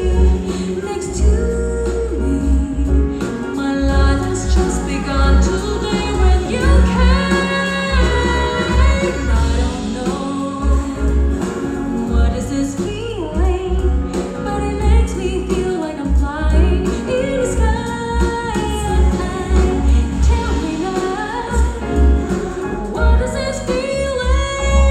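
A song with a female singing voice over heavy, pulsing bass, played through a car audio system.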